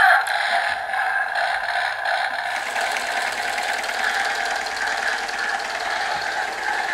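Toy tractor's engine sound effect playing from its small built-in speaker after its red button is pressed: a steady, chugging imitation of a tractor engine running, loudest right at the start.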